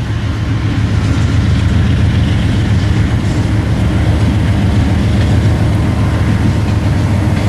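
Westbound intermodal freight train rolling past at speed: a steady, loud rumble of steel wheels on rail.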